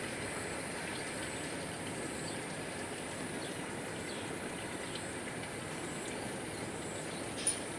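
Steady rural outdoor ambience: an even rushing noise with a steady high-pitched hum above it, and one sharp click near the end.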